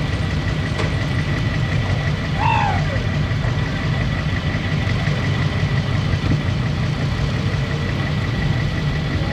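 A motor vehicle's engine running steadily, with a faint steady high whine and one brief rising-and-falling high-pitched call about two and a half seconds in.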